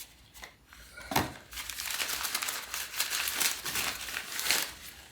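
Crinkling and rustling of parts packaging as a part is unwrapped by hand, with a knock about a second in.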